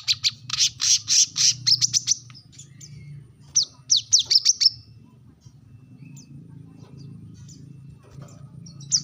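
Brown-throated sunbird (kolibri kelapa) calling sharply, a challenge call to a rival: a rapid run of high chirps over the first two seconds, then a quick series of down-slurred notes around four seconds in, and a few faint chirps near the end.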